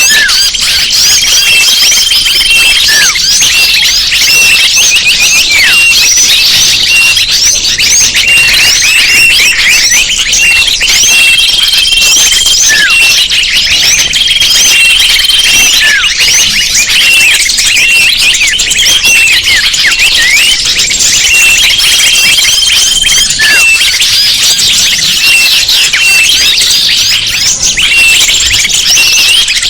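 Loud, dense chorus of many small birds chirping and twittering without pause, used as a bird-lure call. A held high whistle note sounds over it several times.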